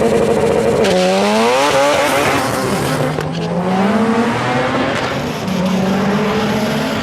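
Performance car engine held at steady revs, then accelerating hard, its pitch climbing, dropping at a gear change and climbing again.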